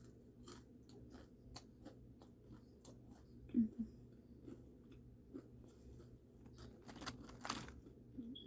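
Close-up chewing and crunching of fried food: a run of short, sharp crunching clicks and mouth sounds, with a louder cluster of crunches about seven seconds in.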